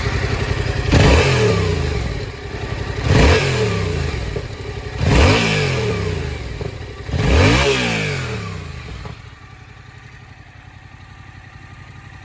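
Yamaha MT-07's 689 cc parallel-twin engine idling and revved four times with quick throttle blips, each rising and falling back to idle, then stopping about nine seconds in. The seller describes the engine as running well.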